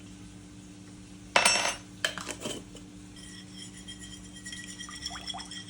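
Measuring spoon and utensils clattering against a mixing bowl while adding garlic powder: one loud clatter about a second and a half in, then a few lighter clinks, followed by a faint steady high ringing.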